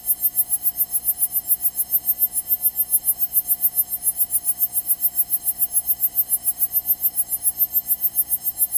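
Cessna 172 engine and propeller noise in the cabin, a steady drone with many fixed tones that pulses evenly about six or seven times a second.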